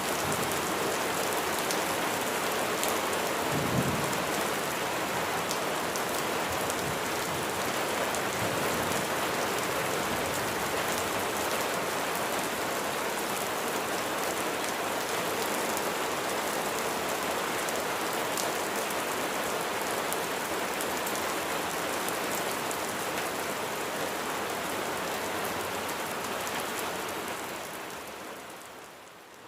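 Steady heavy rain falling on surfaces, with a brief low rumble of thunder about four seconds in. The rain fades down near the end.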